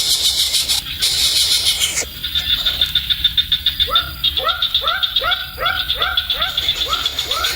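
A run of short animal calls, each rising then falling in pitch, repeated about three times a second from a few seconds in. Under them runs a steady, fast-pulsing high trill like insects.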